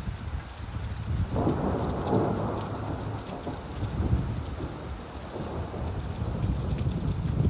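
Steady rainfall with a long rumble of thunder that swells about a second in and slowly dies away.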